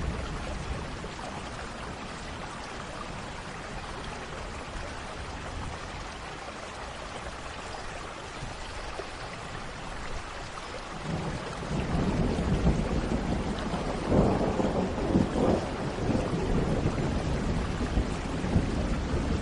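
Steady rain falling, with a roll of thunder building about halfway through and rumbling loudest a few seconds later.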